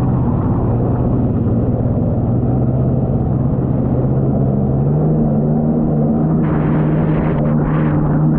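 Jet ski engine running steadily at a fairly constant speed, with a strong low hum. Near the end a rushing hiss joins it and comes and goes.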